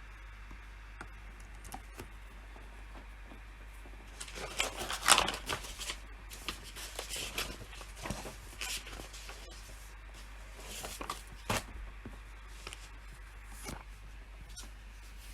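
PC keyboard and mouse in use: a few scattered clicks, then from about four seconds in a quick flurry of key presses and clicks, loudest around five seconds, with another short burst near eleven seconds, over a steady low hum.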